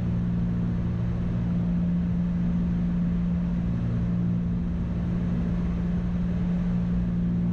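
Twin-engine Cessna's engines and propellers droning steadily in the cockpit, a constant low hum over an even rushing noise.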